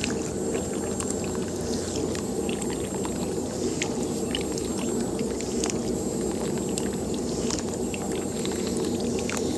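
A small electric water pump running steadily while water pours and splashes, with scattered light ticks.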